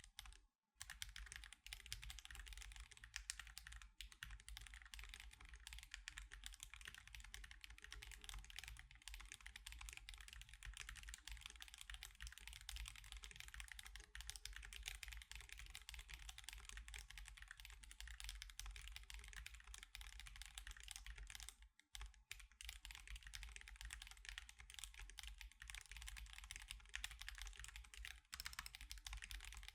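Typing on an Akko Alice Pro mechanical keyboard fitted with Akko CS Crystal switches and osumekeys Sakura and Mochi keycaps: a steady run of key clicks, with brief pauses about half a second in and around 22 seconds in.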